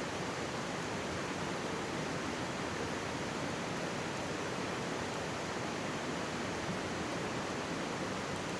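Steady rushing and babbling of a mountain stream, with a few faint crackles from a wood campfire.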